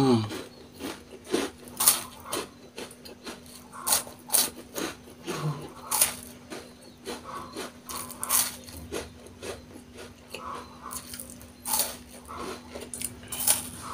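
Close-up chewing of crunchy white-cream Oreo cookies: crisp crunches at an uneven pace, one or two a second, over a faint steady hum.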